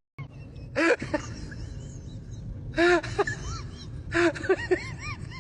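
An animal calling in three short bursts of quick, arching squeaky cries, over a low steady background.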